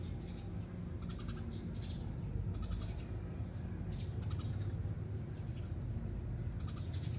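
A bird calling in short, high chirps that come in clusters every second or two, over a steady low rumble.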